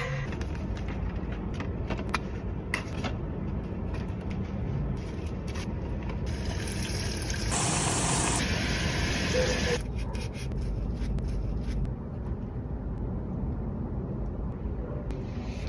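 Close-miked eating sounds: chewing with small clicks over a steady low rumble. A hissing rush from about six to ten seconds in is loudest at about eight seconds.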